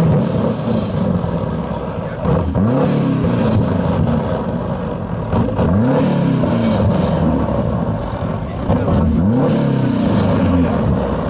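A turbocharged Renault 5's engine revving hard, its pitch climbing and dropping again about four times with short lifts in between.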